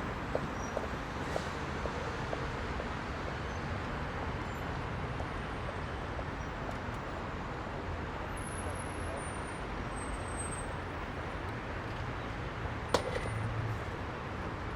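Heavy rush-hour city road traffic: a steady rumble of engines and tyre noise from many passing vehicles, with one sharp knock near the end.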